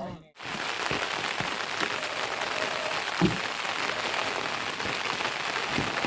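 Heavy rain falling in a steady, dense hiss that comes in just after the start, with one short low thump about three seconds in.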